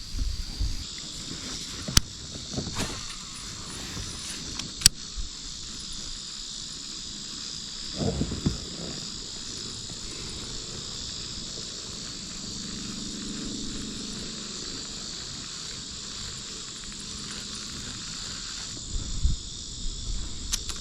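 A steady, high-pitched chorus of insects. Two sharp clicks come about two and five seconds in, and a few dull knocks follow later.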